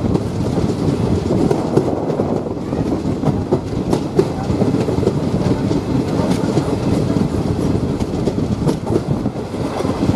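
Passenger train running slowly on the rails, heard from aboard the coach: a steady rumble with the clatter of wheels over rail joints.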